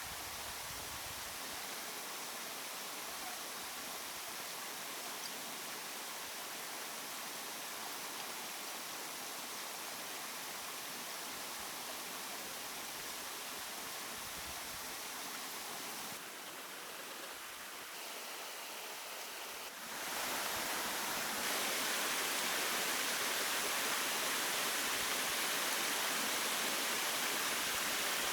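Steady rushing of flowing water, an even hiss with no clear strokes. It drops a little about two-thirds of the way through, then turns louder and brighter for the last third.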